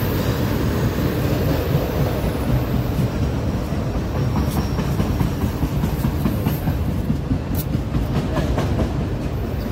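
A big train passing close by: a steady rumble of wheels on the rails, with a few sharp clicks in the second half.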